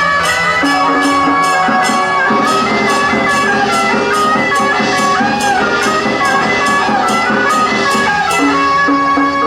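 Traditional Taiwanese temple procession music: wind instruments playing a sustained melody over percussion striking steadily at about two beats a second.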